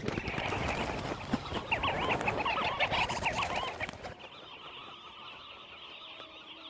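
Sandgrouse calling, a run of quick warbling calls over a loud rushing noise; about four seconds in the rush stops abruptly, leaving a softer, steady chorus of calls.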